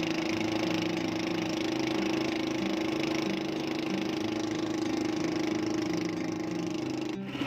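Boat engine running at a steady pitch. A little over seven seconds in it breaks off abruptly, and a louder, throbbing engine sound takes over.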